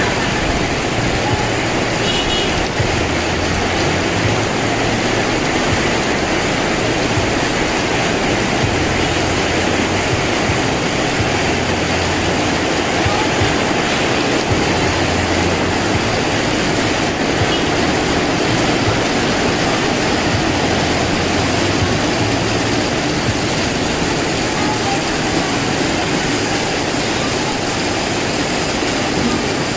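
Strong wind with heavy rain: a loud, steady rush, with a low rumble of gusts on the microphone that swells and fades every few seconds.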